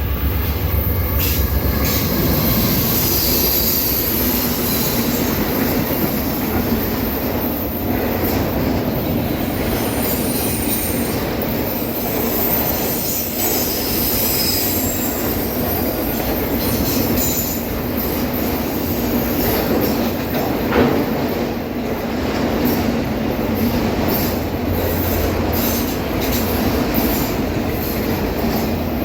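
Norfolk Southern autorack freight train rolling past at speed: a steady rumble of steel wheels on rail, with high-pitched wheel squeal. One sharp knock stands out about two-thirds of the way through.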